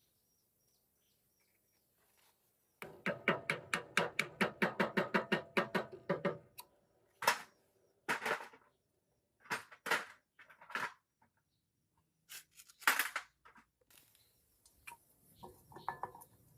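A fast, even run of clicks, about six a second, for some three seconds, followed by several separate sharp knocks and clatters.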